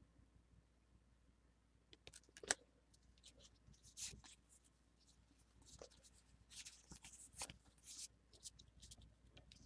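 Faint rustling and light clicks of a Pokémon booster pack and its cards being handled: scattered short crinkles and taps, slightly louder around the middle and latter part.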